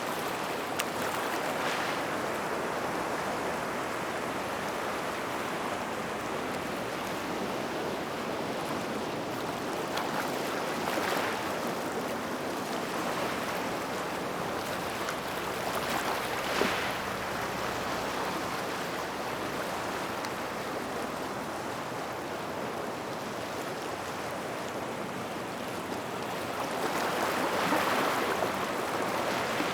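Small waves washing onto a gravel shore by rocks: a steady hiss of water, swelling as each wave breaks every several seconds, with the biggest swell near the end and one short sharp crack about halfway through.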